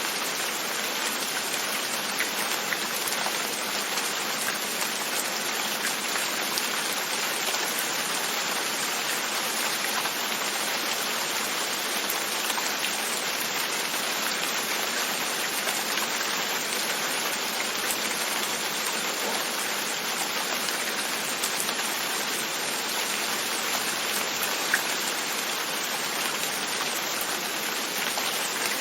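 Steady rain falling and pattering on a window, an even hiss with scattered drop ticks and one sharper tick near the end.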